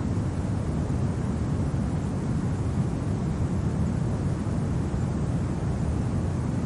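Steady low rumble of winter wind, an even noise with no gusts or separate events.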